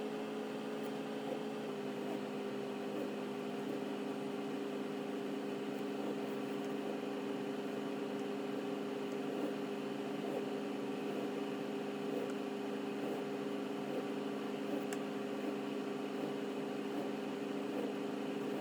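A steady mechanical hum with a few steady tones, which shift slightly in pitch about two seconds in.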